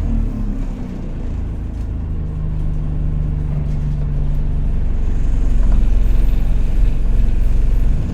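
Alexander Dennis Enviro200 single-deck bus heard from on board, its engine running with a deep rumble that slowly builds louder as the bus gets under way again.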